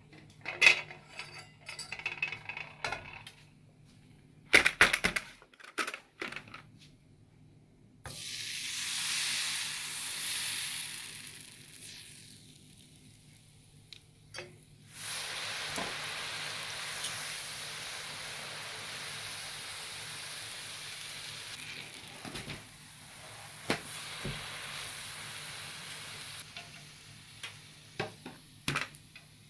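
Hot oil sizzling as pandan beehive crisp batter fries on a metal rosette mould, in two spells: the first starts suddenly about eight seconds in and fades, the second starts about fifteen seconds in and runs steadily for about ten seconds. Metal clinks and taps come before and after.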